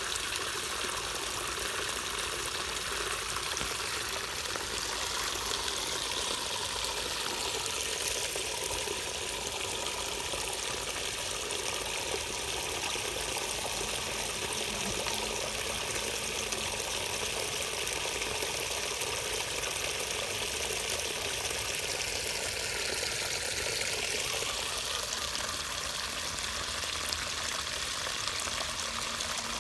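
Floodwater pouring and rushing steadily through a drain that has been cleared of debris.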